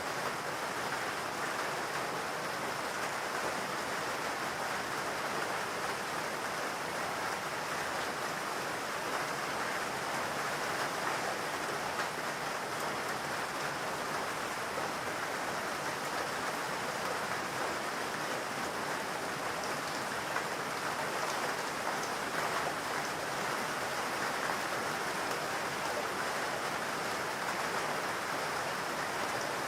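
Steady rain falling, an even hiss of many drops with the patter of individual drops on surfaces.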